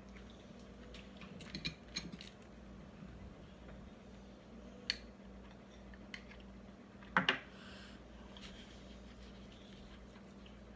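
A few small clicks and taps of cutlery and a plate while eating, the loudest a quick double click about seven seconds in, over a steady low hum.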